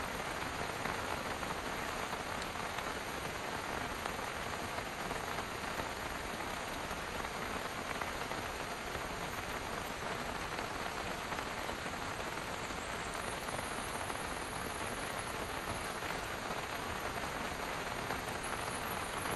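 Steady rain drumming on a parked car's roof and windows, heard from inside the car as an even, dense patter.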